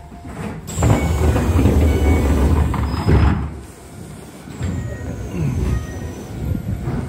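Electric commuter train at a station platform: a low rumble with a high whine that falls in pitch, once near the start and again about two-thirds of the way in.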